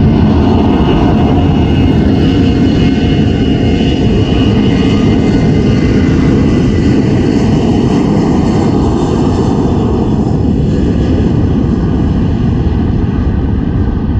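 Jet airliner engines at takeoff power: a loud, steady noise with several whining tones above it.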